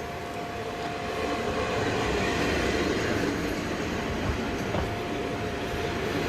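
Diesel railcar running along the line: a steady rumble with a constant whine, getting louder about a second and a half in.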